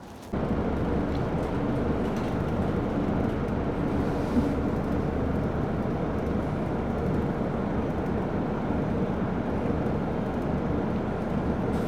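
Bus engine and road noise: a steady, loud drone with a low hum. It cuts in suddenly just after the start and stops suddenly at the end.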